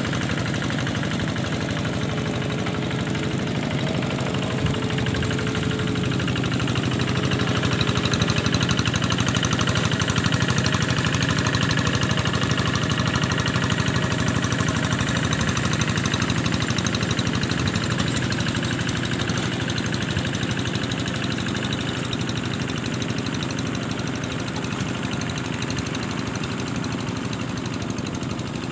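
An engine running steadily, growing a little louder around the middle and easing off slightly toward the end.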